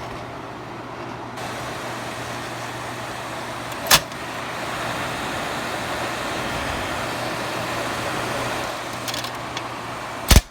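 Two ceiling bathroom exhaust fans running: a steady airy whoosh with a low motor hum underneath. A sharp click comes about four seconds in and another near the end.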